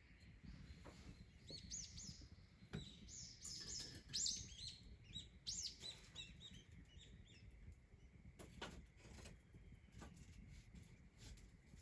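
Small bird chirping a quick run of short, high notes for several seconds, then falling quiet, with a few faint clicks afterwards over a low background rumble.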